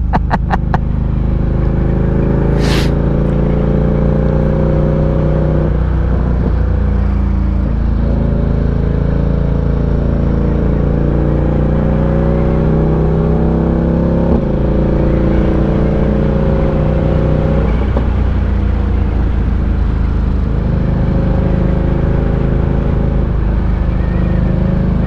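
Ducati Diavel 1260's V-twin engine running on the move, its pitch rising and falling and dropping abruptly a few times, with a brief hiss about three seconds in.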